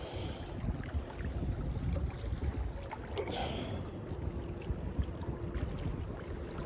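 Wind rumble on the microphone with water lapping, and a faint steady hum from about halfway through.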